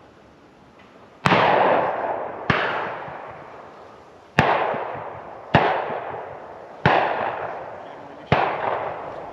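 Six shotgun shots, spaced unevenly about one to two seconds apart, each trailing off in a long echo.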